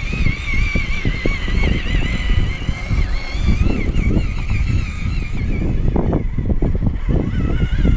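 A 1/16-scale RC truck's small electric motor and gearbox whining as it drives, the pitch wavering up and down with throttle and load, over an irregular low rumble and knocking.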